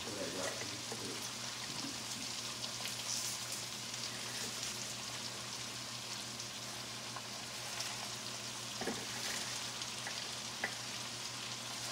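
Shredded cabbage frying in grease in a skillet: a steady sizzling hiss, with a couple of faint ticks near the end.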